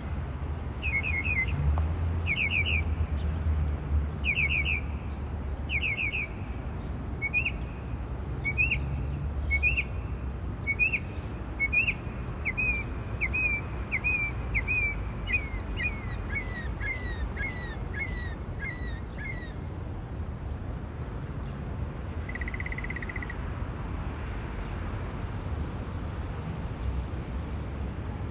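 A songbird singing long series of short repeated chirps, switching to a new note type every few seconds, then a short buzzy note and a few high notes. The uploader takes the varied notes for imitations of a parrot, a sparrow and other birds. A low rumble sits under the first ten seconds or so.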